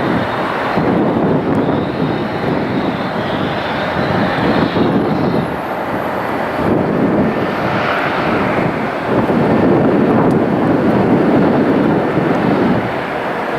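Jet airliner engines making a loud, continuous rumble mixed with a rushing noise as the aircraft passes close by, swelling and easing and loudest shortly before the end.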